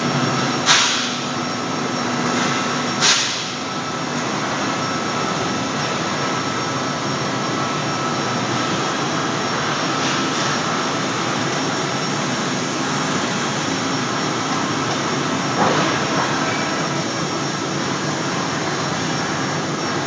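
CNC beam-processing line running steadily while working on steel beams, with a few sudden loud sounds about a second in, at three seconds, and near sixteen seconds.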